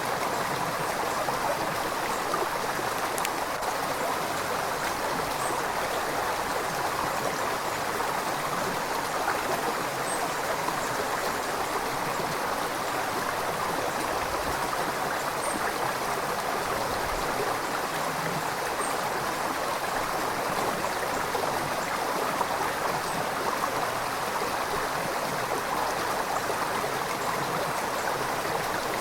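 River water flowing steadily over rocks, an even rushing and gurgling that doesn't let up.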